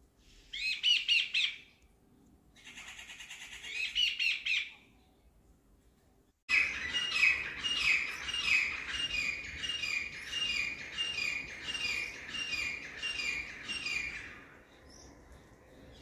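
Jungle babbler giving two short bursts of harsh, rapid chattering. About six seconds in, an oriental magpie-robin starts suddenly, repeating a call nearly twice a second for about eight seconds.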